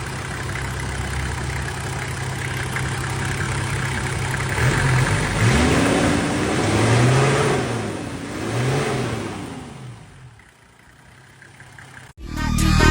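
Mercedes-Benz OM617 inline-five diesel running steadily, then blipped up and down three times in quick succession. It then dies away near the end.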